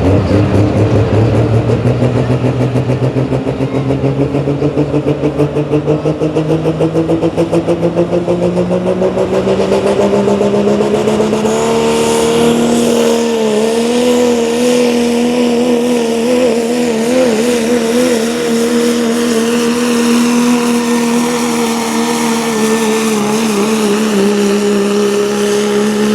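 1997 Dodge pulling truck's engine at full throttle under load on a truck pull: its pitch climbs steadily for about twelve seconds with a pulsing beat, then holds high, wavering slightly, until the throttle comes off at the end.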